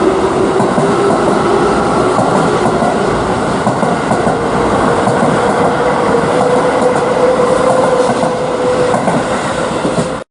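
Electric commuter train running, with a motor whine rising slowly in pitch as it gathers speed over the rumble and clatter of wheels on rail. The sound cuts off suddenly near the end.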